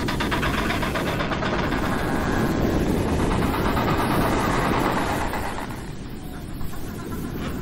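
Several penguins calling together in a dense, rough chorus that softens about five and a half seconds in.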